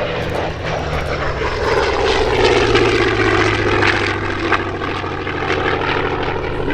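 Propeller aircraft engine running through a flyby, its note dropping in pitch as the aircraft passes.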